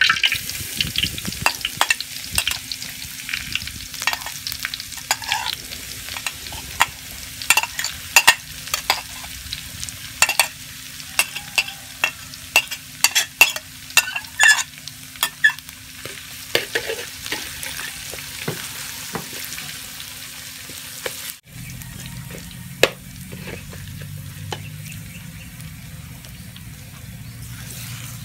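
Minced lemongrass, garlic and chilies sizzling in hot oil in a wok, with a steady hiss and many sharp clicks of a metal spatula scraping and tapping against the plate and the wok. The sound cuts out for a moment about two-thirds of the way through, then the sizzling goes on under a low hum.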